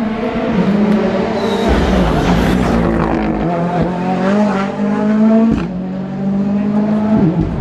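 Rally car engine under hard driving, its pitch climbing and dropping through several gear changes, with a sharp break in the engine note about five and a half seconds in.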